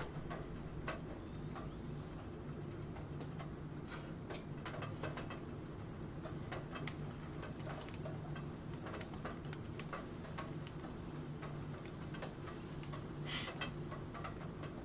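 Computer keyboard typing: irregular key clicks, at times in quick runs, over a steady background of rain. A brief louder clatter comes near the end.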